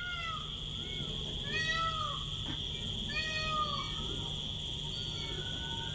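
A domestic cat meowing repeatedly, with drawn-out rising-and-falling meows about one and a half and three seconds in and shorter, fainter ones around them. A steady high-pitched whine runs underneath.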